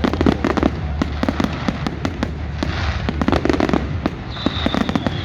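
Fireworks display: a dense run of rapid cracks and pops. A high, slightly falling whistle starts about four seconds in.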